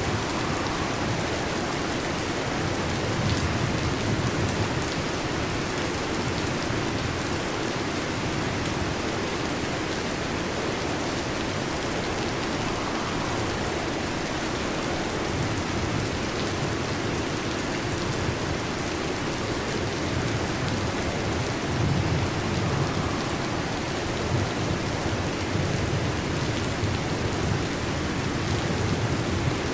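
Heavy rain falling steadily on a metal roof, with low thunder rumbling a few seconds in and again about two-thirds of the way through.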